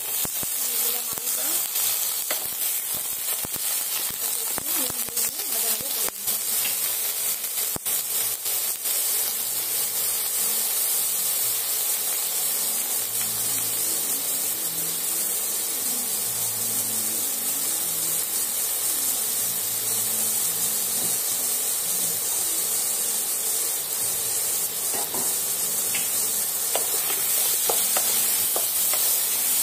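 Cubed potatoes frying in hot oil in a nonstick wok with a steady sizzle. Knocks and scrapes from a spatula come thickly over the first several seconds as the pieces go in and are turned, and fewer after that.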